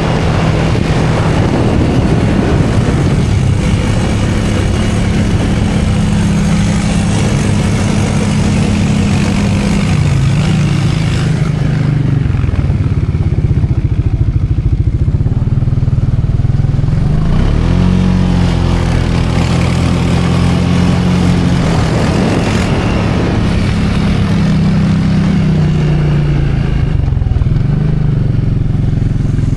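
Small motor vehicle engine running loudly, its pitch rising and falling several times as it speeds up and slows.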